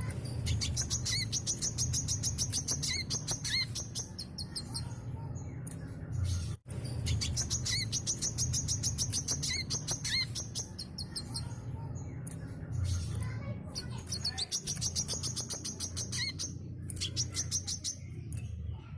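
Brown-throated sunbird singing at full vigour: long runs of fast, high, rapidly repeated chattering notes with short upslurred whistles mixed in, broken by a momentary dropout about six and a half seconds in. A steady low hum runs underneath.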